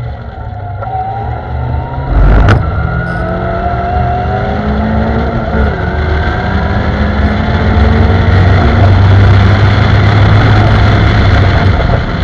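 Caterham Seven's Ford Zetec four-cylinder engine under hard acceleration, its pitch climbing in stretches as it pulls through the gears. A loud thump about two seconds in, after which the revs start lower and climb again. Steady wind and road rumble in the open, screenless cockpit.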